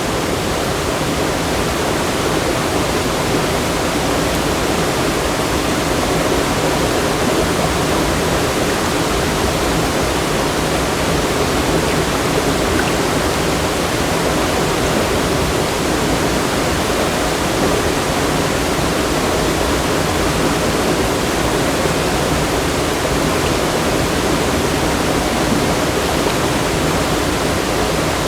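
Fast-flowing water rushing steadily and evenly, loud and with no pauses.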